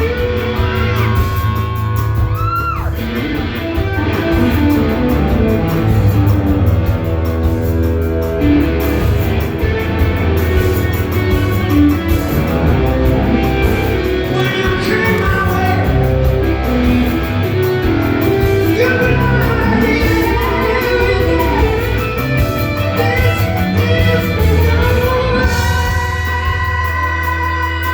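Rock music: a band with guitar playing and a voice singing, with long held, gliding notes near the end.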